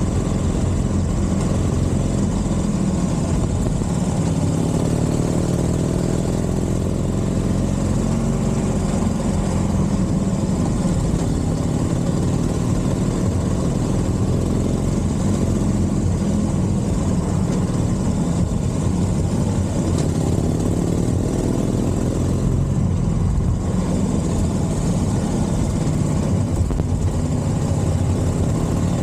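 Harley-Davidson Forty-Eight XL1200 air-cooled V-twin with a Scorpion aftermarket exhaust, running steadily at low revs. Its pitch drifts up and back a little twice.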